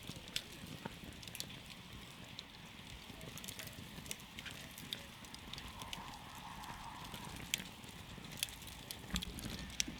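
Wood campfire crackling, with irregular sharp pops and snaps over the low, steady rush of the flames.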